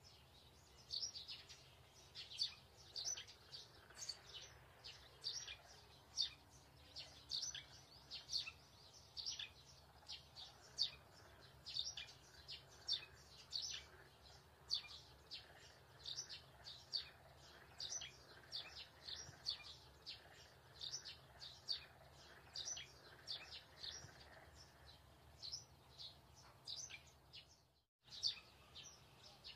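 A small bird chirping over and over, short high chirps about two or three a second, faint, over a low steady hum. The sound cuts out completely for a moment near the end.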